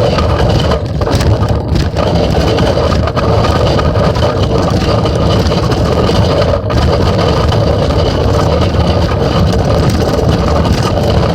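Steady loud rumble and rattle of a phone riding in a child's bicycle basket as the bike rolls along, with a few brief dips.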